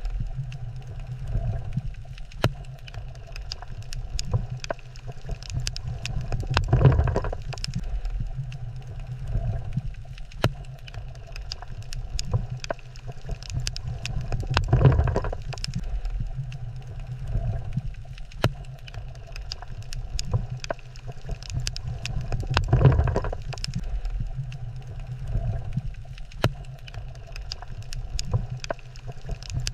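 Underwater ambience at a coral reef: a low rumble that swells about every eight seconds, with scattered sharp clicks throughout.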